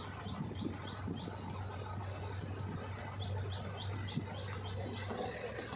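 A bird repeats a short high chirp about three times a second, in two runs of several notes: one near the start and one a little past the middle. Under it runs the steady low hum of the JCB 3DX backhoe loader's diesel engine.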